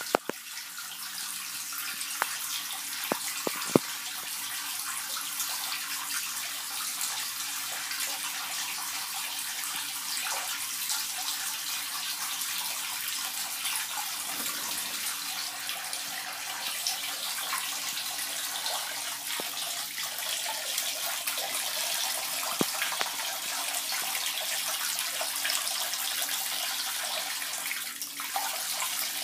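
A water tap running steadily into a sink as a cinnamon sun conure bathes in the stream, with a few sharp knocks in the first few seconds.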